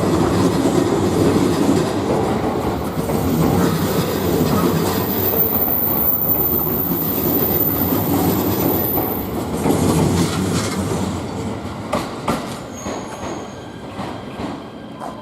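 Train moving on the station tracks: a steady rumble of wheels on rail, with a thin, high wheel squeal through the middle, then a few sharp clicks as the sound fades near the end.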